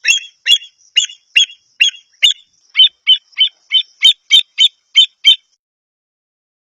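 Avocet calling: a run of about fifteen short, sharp, high calls, two to three a second, coming a little faster towards the end and stopping about five seconds in.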